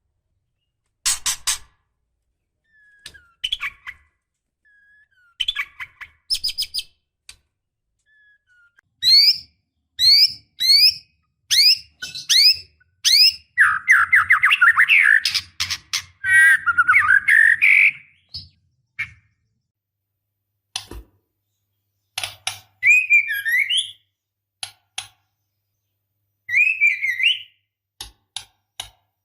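Female white-rumped shama calling: a quick series of rising whistled notes, then a harsh chattering rattle lasting a few seconds, then scattered short calls. These are the calls of a female in breeding condition calling for a male.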